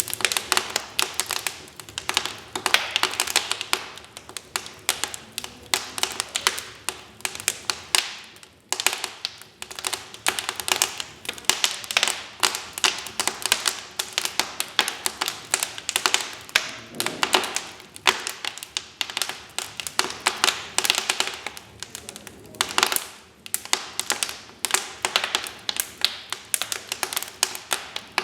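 Wood fire in a fireplace crackling steadily, with dense irregular pops and snaps over a soft hiss of burning.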